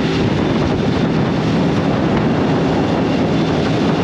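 Steady, loud rushing noise with a low hum underneath, typical of a small boat's motor and the wind and water around it.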